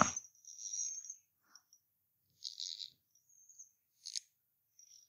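Faint, high chirps of small birds, with a few short scratchy sounds and one sharp click about four seconds in.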